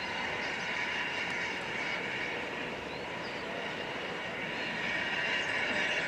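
A train running on the line: a steady rushing noise without clear separate beats.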